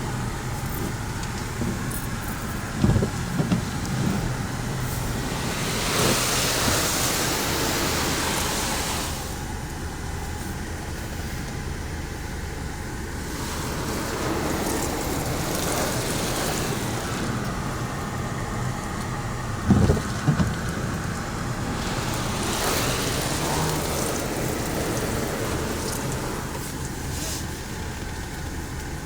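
Ryko Radius automatic car wash running, with two long surges of hissing spray and a couple of short double knocks over a steady mechanical background.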